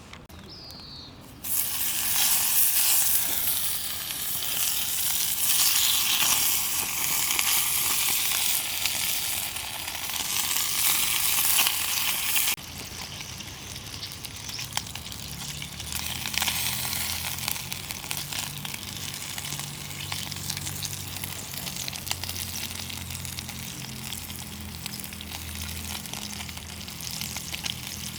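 Meat sizzling as it grills over a campfire. The sizzle starts suddenly and is loud for about ten seconds, then drops abruptly to a softer, steady sizzle.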